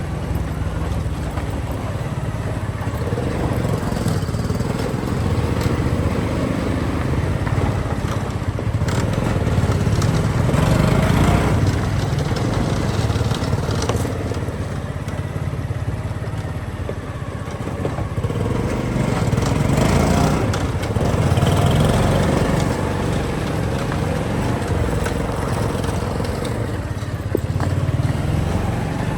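Motorcycle engine running while being ridden, its note rising and falling, louder about a third of the way in and again about two-thirds in.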